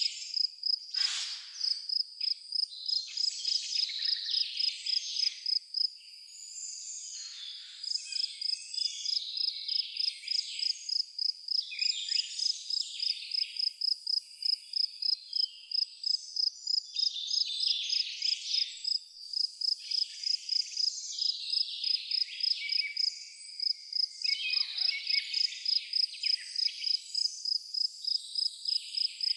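A cricket chirping in a steady, evenly paced run of high-pitched pulses, a few a second, pausing briefly about six seconds in, while several birds sing varied phrases over it.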